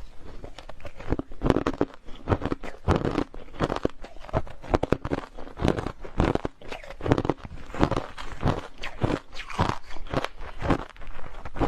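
A person biting and chewing hard crushed ice close to the microphone: a steady run of sharp, irregular crunches, several a second.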